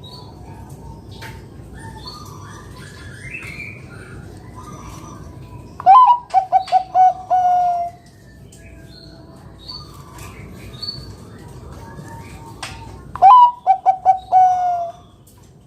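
Zebra dove (Bangkok perkutut) cooing two full song phrases about seven seconds apart. Each is a quick run of clipped notes ending in a longer, drawn-out low note, the 'kung' prized by perkutut keepers, over faint chirping of other birds.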